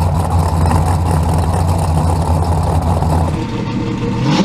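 Street-race drag car's engine idling loudly with a steady deep rumble. The deep rumble drops away about three and a half seconds in, leaving a lighter engine sound.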